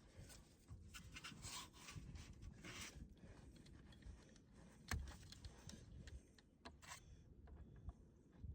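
Faint rustling and scraping of someone shifting about and handling things at close range, with small clicks and one sharper knock about five seconds in.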